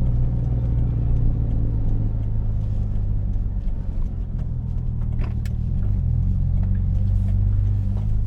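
A 2G Mitsubishi Eclipse's engine running steadily at low revs while the car moves slowly in search of parking.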